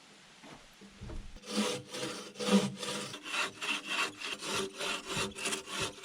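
Hand saw cutting through wood in quick back-and-forth strokes, roughly three a second, starting about a second and a half in.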